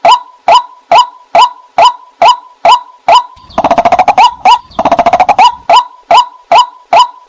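White-breasted waterhen calling: a steady series of short, sharp notes at about two a second, broken twice in the middle by a fast rattling chatter of notes.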